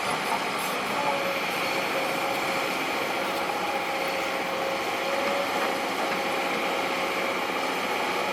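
Heavy diesel earthmoving machinery running steadily, with a steady whine held over the engine noise.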